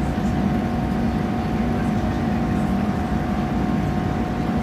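Passenger train running along the line, heard from inside the carriage: a steady rumble with a constant hum.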